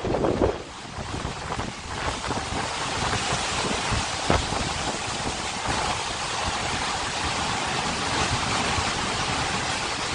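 Storm wind and driven rain rushing steadily, with wind buffeting the microphone in the first moment and a single sharp knock about four seconds in.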